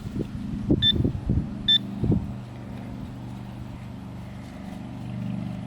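Metal-detecting pinpointer giving two short high beeps about a second apart, over rustling and knocking in the dug soil. A steady low hum then runs on after about two seconds.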